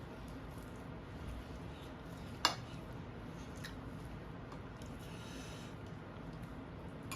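Quiet eating and food-handling sounds: one sharp clink of tableware about two and a half seconds in, a fainter click a second later, and a brief rustle near the end.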